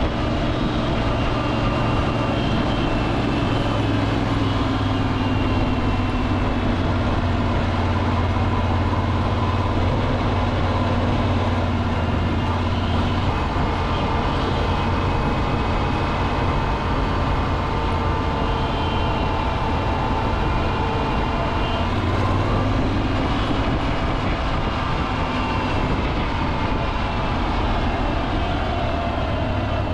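Air-cooled Kohler Command V-twin engine running steadily under way, its pitch drifting slowly up and down with road speed over a constant rushing noise.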